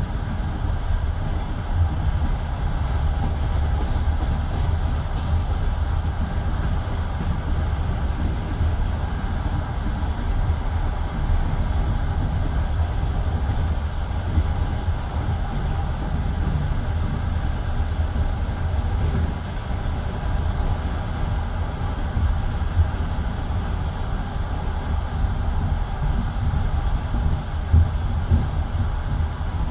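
Passenger train running at speed, heard from inside the carriage: a steady low rumble of wheels on rails.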